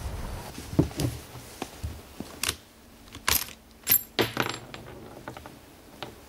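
A scatter of sharp metallic clicks and clinks, about ten of them, from cartridges and the action of a Glenfield/Marlin 30-30 lever-action rifle being handled.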